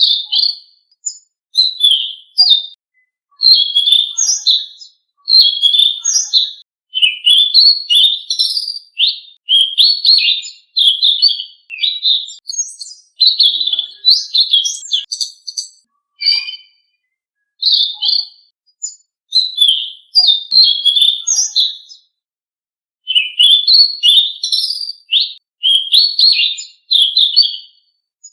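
A selendang biru songbird singing, as in a recording used to train caged birds: rapid, high chirping and twittering phrases in quick runs with short pauses between them.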